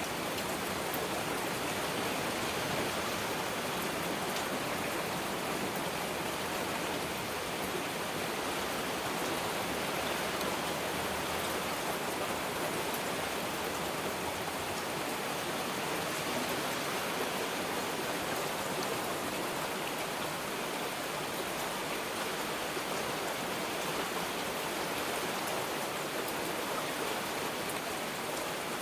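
Heavy rain falling steadily, a dense, even hiss of countless drops with no breaks or louder moments.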